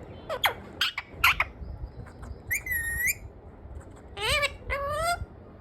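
A pet parrot calling: a quick run of short squawks, then a whistled note about halfway, then two longer rising calls near the end.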